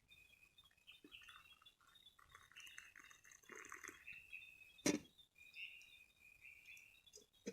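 Faint, high chirping calls of forest wildlife repeating throughout, with one sharp knock about five seconds in that is the loudest sound.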